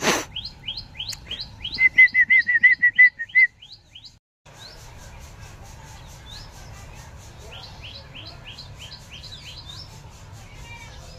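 Small bird chirping in quick series of short rising chirps, about four or five a second, with a loud rapid trill around two to three seconds in. A sharp knock at the very start, and the sound drops out briefly a little after four seconds.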